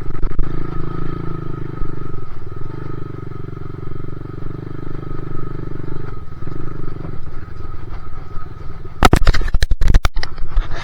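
Two-stroke dirt bike engine running steadily under throttle while riding, easing off for a moment twice. About nine seconds in comes a quick run of loud sharp knocks.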